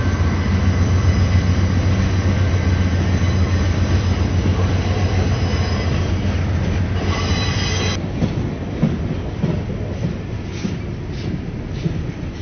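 Freight train cars rolling past close by: a heavy low rumble of wheels on rail with thin, steady high-pitched wheel squeal. About 8 seconds in, the sound cuts abruptly to a quieter, more distant train rumble with a few sharp clicks of wheels over rail joints.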